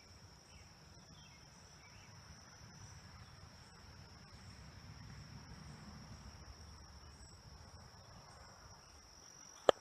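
Crickets trilling in one steady high tone over the soft rush of a flowing stream. A single sharp click near the end.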